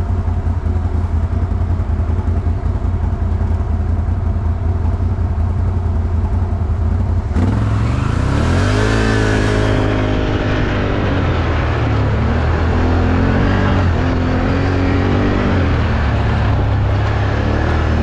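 ATV engine running at steady low revs, then about seven seconds in the throttle opens and the revs climb. The pitch then rises and falls as it drives on, with a rushing hiss for a couple of seconds after the throttle opens.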